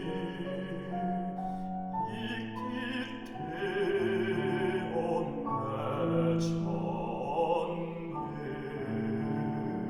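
A classical baritone singing with vibrato over instrumental accompaniment.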